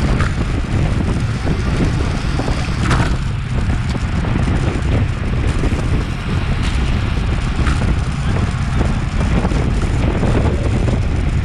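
Wind rushing over an action camera's microphone on a road bike at racing speed, a loud, steady rumble.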